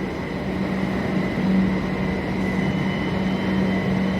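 Kolkata Metro train running, with a steady hum and a thin high whine; a second, higher whine joins a little past halfway.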